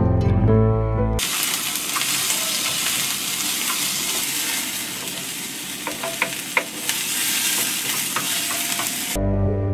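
Chopped red onions sizzling as they fry in a frying pan and are stirred with a plastic spatula, with a few sharp clicks of the spatula against the pan about six seconds in. The sizzling starts about a second in and stops near the end. Soft plucked-string music plays at the very start and returns near the end.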